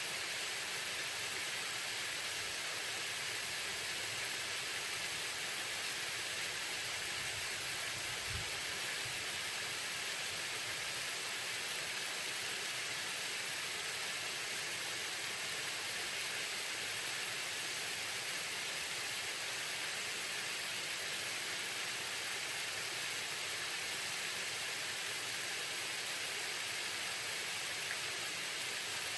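Waterfall: a steady, unbroken rush of falling water, mostly a high hiss.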